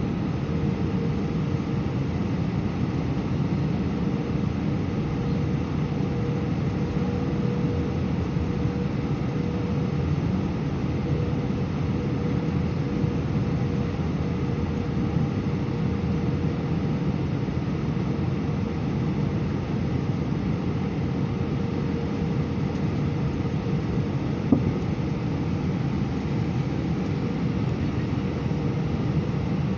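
Steady cabin noise of an Airbus A319 airliner in flight: an even rush of engine and airflow noise with a constant hum tone. There is a single brief click near the end.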